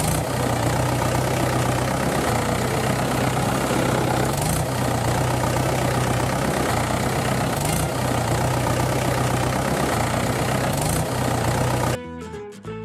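An engine idling steadily with a low, even hum, cutting off suddenly near the end.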